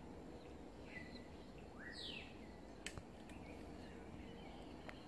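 Faint outdoor ambience with a few short bird calls, among them a quick chirp that sweeps up and then down about two seconds in. There is a single sharp click near the middle.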